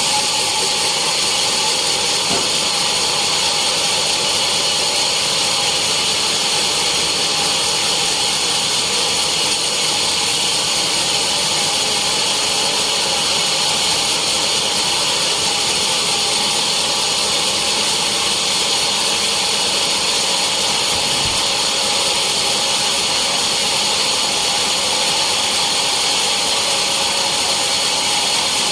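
Sawmill saw running steadily on teak logs: a loud, unbroken machine noise with a high-pitched whine that does not change.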